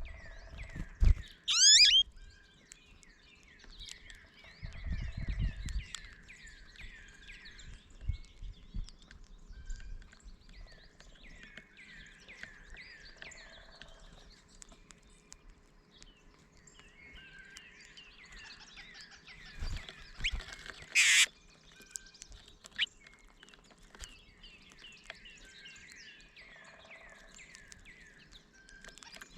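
American goldfinches and a red-bellied woodpecker calling as they bicker: bouts of quick, short downslurred chirps repeated again and again. There is a loud sweeping call near the start, a sharp crack about two-thirds of the way through, and a few low thumps.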